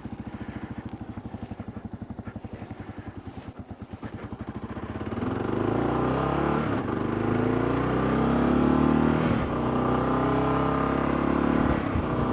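Motorcycle engine idling with an even beat, then pulling away about five seconds in and accelerating, its pitch climbing and dropping back at each upshift, about three gear changes.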